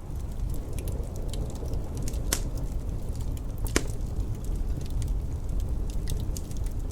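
Wood fire in a fireplace crackling: many small scattered crackles and two louder pops, one a little over two seconds in and one near the middle, over a steady low rumble.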